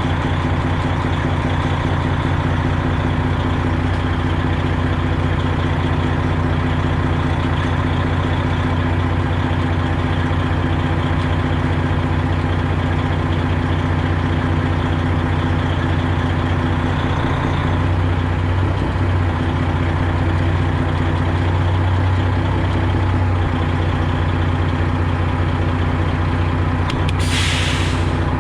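Semi-truck diesel engine running steadily at a low idle, with a short hiss of compressed air near the end from the air brakes.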